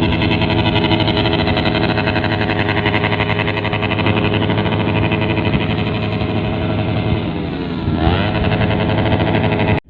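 A crowd of motorcycles with open, unmuffled 'brong' exhausts revving together without letup, a dense layered engine racket. Near the end one engine dips and revs sharply up, then the sound cuts off suddenly.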